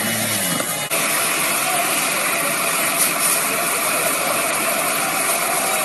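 Steady motor-vehicle noise, engine and mechanical rattle, starting abruptly about a second in.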